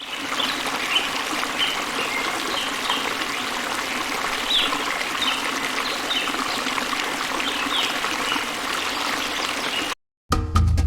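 Running water trickling steadily, with scattered short high chirps that fall in pitch. It cuts off suddenly near the end.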